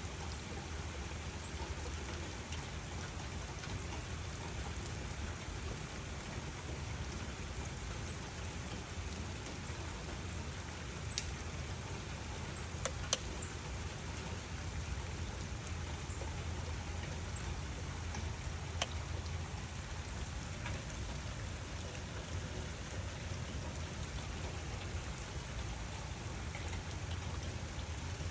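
Steady rain falling on a surface, with a low rumble underneath and a few sharp, louder drops about a third and two thirds of the way through.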